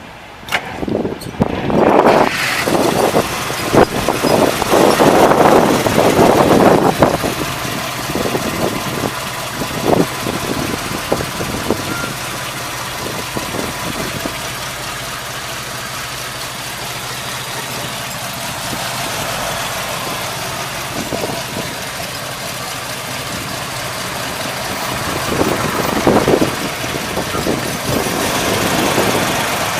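ZIL-508 six-litre petrol V8 of a ZIL-131 truck cranking with clicks in the first couple of seconds, catching about two seconds in and running high and loud for several seconds. It then settles to a steady idle, and the revs rise again near the end.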